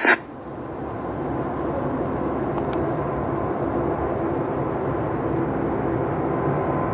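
Heavy jet airliner's engines heard outdoors: a steady noise that grows louder over the first couple of seconds and then holds.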